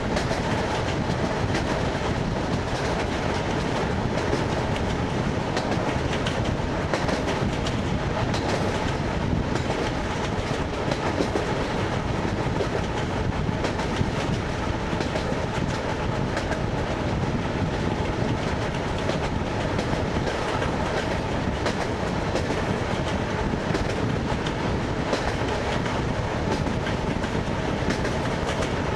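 ED9MK electric multiple unit running on jointed rail, heard from inside the carriage: a steady rumble of the wheels with clickety-clack as they cross the rail joints.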